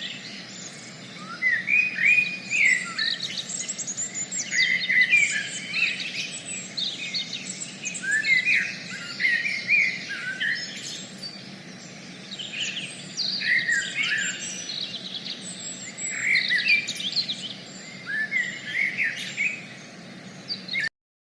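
Birds chirping and calling together, a dense run of short, quick notes sweeping up and down in pitch, over a steady background hiss. The sound cuts off suddenly near the end.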